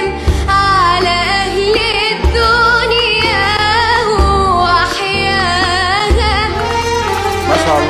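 A voice singing with wavering, ornamented runs over backing music, with a deep bass beat about every two seconds.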